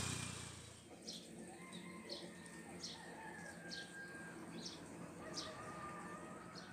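Faint birdsong: a short, high chirp repeated roughly once a second over softer, thin whistled notes. A louder engine-like hum fades out in the first second.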